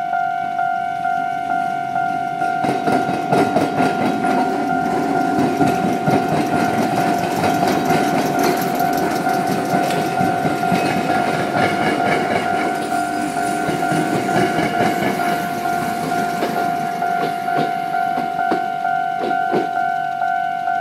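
Train passing over a rail diamond crossing, its wheels rumbling and clattering over the crossing gaps, from about two seconds in until it fades near the end. Under it a level-crossing warning bell keeps up its steady two-tone ding, about twice a second, throughout.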